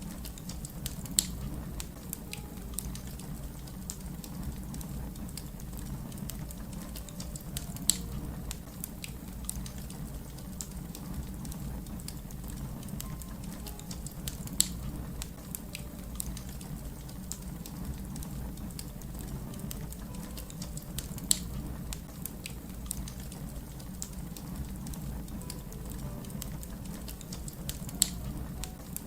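Wood fire crackling: a steady low rumble under many small ticks and snaps, with five louder sharp pops about every six to seven seconds.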